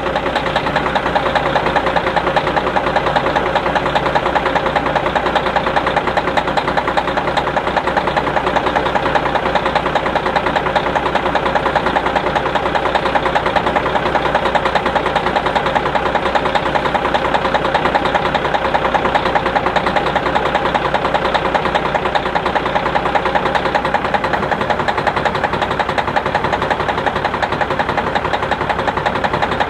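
1996 Kenworth truck's diesel engine idling steadily just after a cold start.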